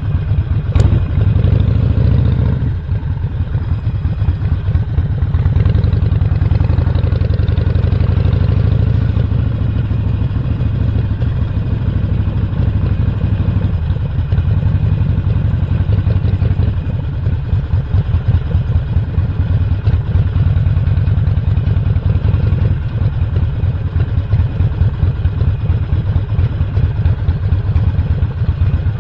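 Harley-Davidson Sportster Roadster's Stage 1 air-cooled 1200 cc V-twin running while riding, with the engine note rising and easing several times as the throttle changes. A sharp click sounds about a second in.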